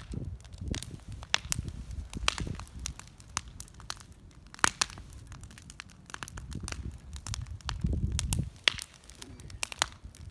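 Bonfire crackling with irregular sharp pops, the loudest about four and a half seconds in and near the end, over a low rumble that swells and fades.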